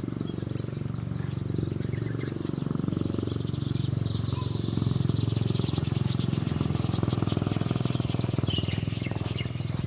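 Steady low outdoor rumble with faint, brief high chirps from small birds and a high buzzing texture over it, strongest around the middle.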